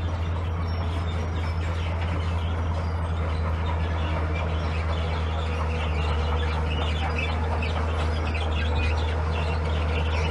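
Heavy diesel earthmoving engine running steadily at a constant speed, a low even hum. Birds chirp faintly over it.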